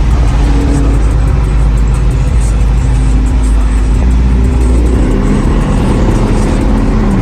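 A car engine running loud and low, with music playing along with it.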